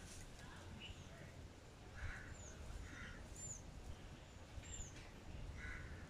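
Birds calling: one repeats a short, high note that hooks downward about once a second, among lower chirps, over a faint low rumble.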